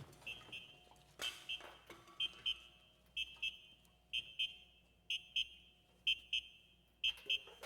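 High-pitched electronic beeping in pairs, about one pair a second, like an alarm or phone signal, over a faint low hum.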